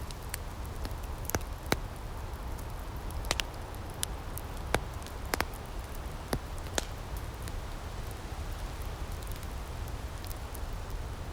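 Wood fire in an outdoor firepit crackling, with sharp pops scattered irregularly through the first seven seconds and fewer after. Under it is a steady low rumble and soft hiss.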